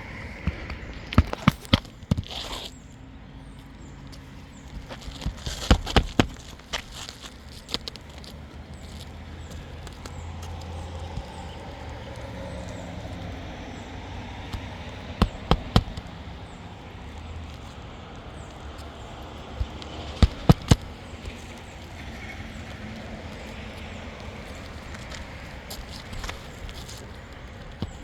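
Hammer nailing a new asphalt roof shingle into place: about four short groups of two to four sharp strikes each, with pauses between.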